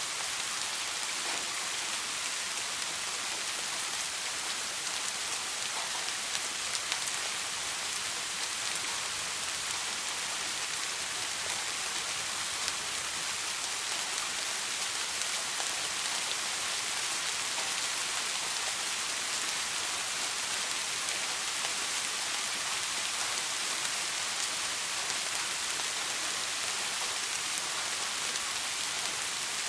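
Soft steady rain falling, an even hiss of many drops, with a few louder drops about six to seven seconds in.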